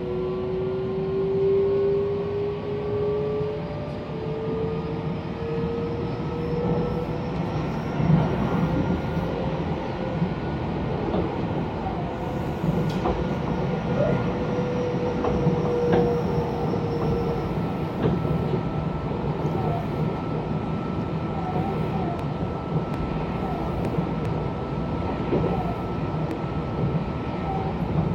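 Electric train running, heard from inside the passenger car: a steady rumble of wheels and track under a motor whine. The whine rises slowly in pitch over the first several seconds as the train gathers speed, then holds steady.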